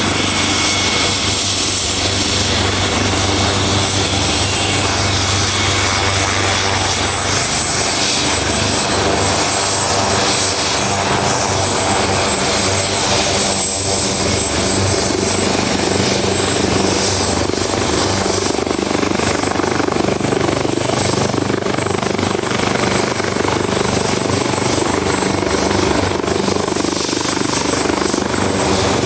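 Helicopter running: a steady high whine over dense rotor and engine noise at an even level. A low hum underneath fades out about seven seconds in.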